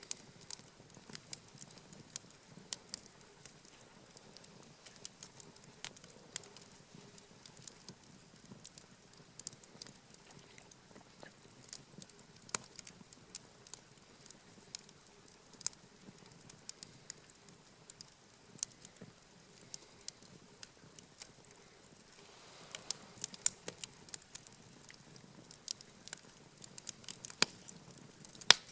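Wood campfire crackling, with sharp pops coming at irregular intervals.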